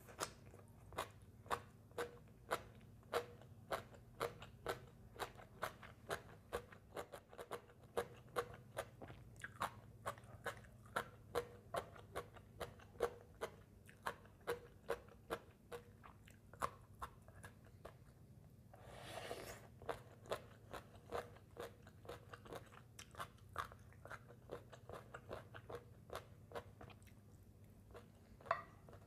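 Close-miked crunchy chewing of green papaya salad and crispy fried fish, a sharp crunch about twice a second, thinning out later on. A short rush of noise breaks in about two-thirds of the way through, over a faint low hum.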